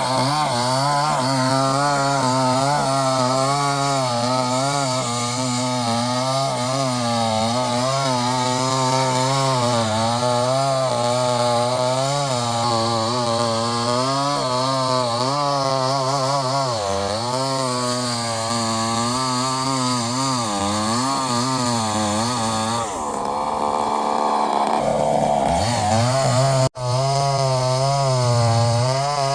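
Two-stroke chainsaw running at high revs through wood, its engine pitch wavering as the chain bites and eases. About three quarters of the way through, the revs fall away and climb again, and near the end the sound breaks off for an instant.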